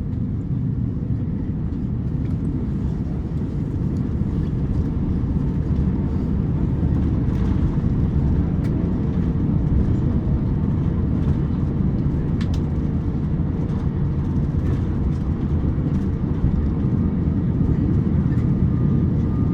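Steady low rumble inside the cabin of an Airbus A350-900 taxiing, its Rolls-Royce Trent XWB engines at low power, with a constant hum and a few faint ticks. The rumble grows slightly louder.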